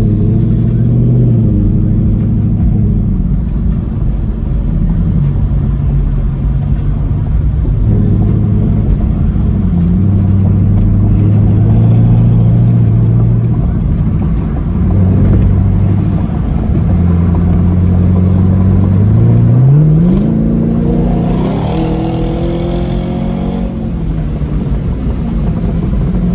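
Chevrolet Camaro 2SS's 6.2-litre V8 with the muffler deleted, running with a deep, steady exhaust note that shifts as the car cruises. About twenty seconds in, the engine revs up sharply as the car accelerates hard in a pull.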